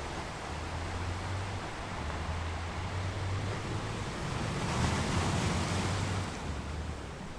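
Waves washing onto a beach, with one wave swelling louder about two-thirds of the way through over a low rumble.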